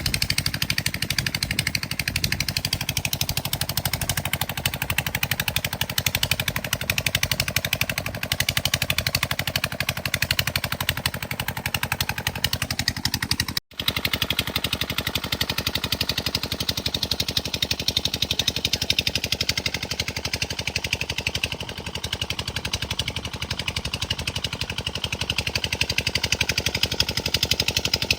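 Old engine-driven water pump running steadily, its engine firing in a rapid, even stream of exhaust beats. The sound breaks off for a moment about halfway through, then carries on.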